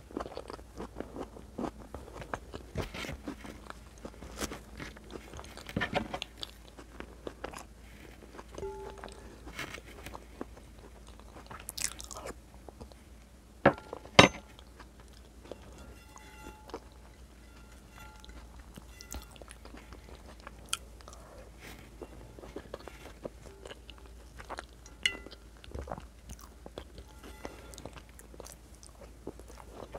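Close-miked chewing and wet mouth sounds of someone eating white beans and meat in red sauce with bread, with many small smacks and clicks. About halfway through there are two sharp clicks in quick succession, the loudest sounds.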